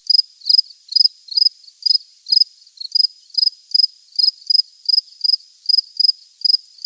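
Cricket chirping steadily, short high chirps about two a second, with no other sound underneath.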